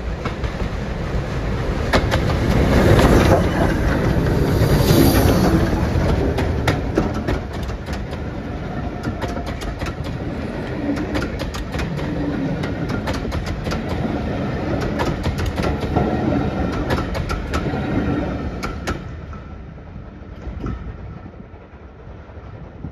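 Steam-hauled passenger train passing close by, loudest in the first few seconds, then the wheels clicking over the rail joints as the coaches run past. The sound falls away sharply about 19 seconds in.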